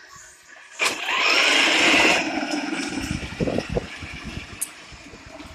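An engine-like vehicle sound starts suddenly about a second in, is loudest for about a second and a half, then fades away over the next few seconds.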